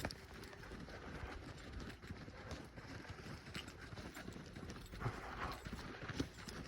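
Footsteps of a person running on a dirt trail: a quick, rhythmic series of crunching footfalls.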